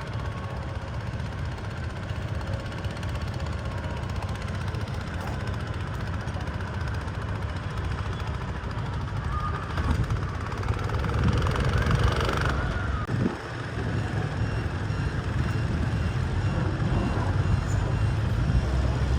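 Cub Cadet 128 garden tractor engine running hard, pulling a weight sled. The engine rumble grows louder about halfway through and dips briefly once shortly after.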